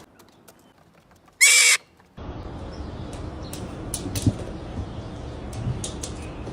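A bird's single loud, shrill screech, about half a second long, about a second and a half in. After it comes a steady background hiss with faint scattered clicks.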